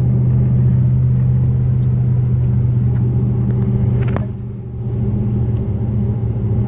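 Car driving, heard from inside the cabin: a steady low engine and road drone. There is a short click about four seconds in, and the drone dips briefly right after it.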